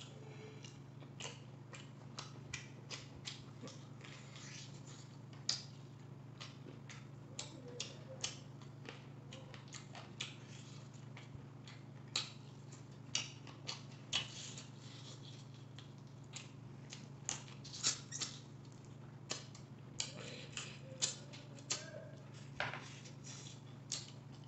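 Close-miked chewing and lip-smacking while eating noodles and fried pakoda: many short, irregular wet clicks, over a faint steady low hum.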